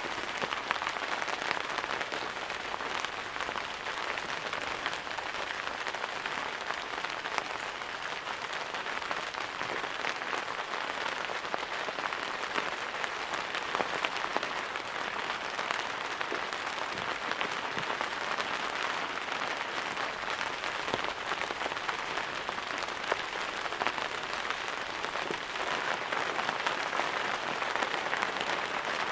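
Steady rain falling, a dense even hiss made of countless small drop hits.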